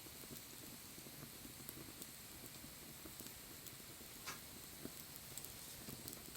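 Wood fire crackling faintly, with scattered small pops and one sharper crack about four seconds in.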